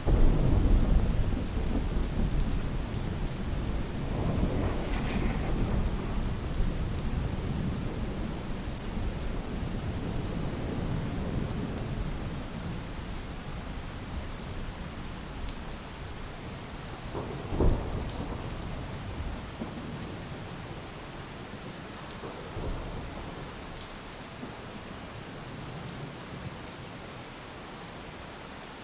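Steady rain with thunder: a loud thunderclap right at the start rolls away slowly over the next several seconds, and a second, sharper crack comes a little past halfway.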